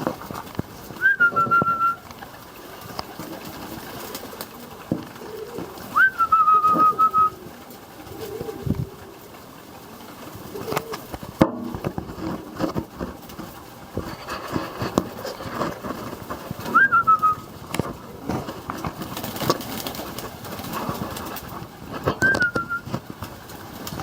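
Pigeons cooing in low calls, among scattered knocks and shuffling. Four times, a short whistle rises sharply, holds a steady tone, and sounds above them.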